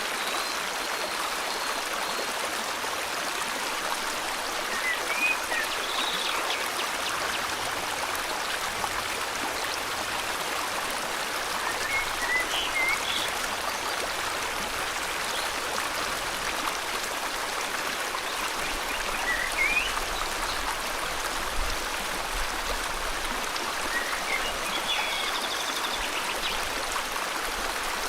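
Steady rush of a flowing river, with short bird chirps breaking in every several seconds.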